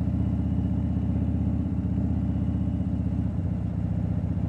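Harley-Davidson Dyna Fat Bob's V-twin engine running steadily under way, a noisy exhaust note with a fast, even pulse.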